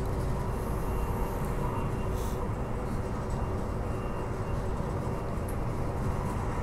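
Transperth B-series electric multiple unit running at speed, heard from on board: a steady rumble of wheels on rail with a faint steady whine over it.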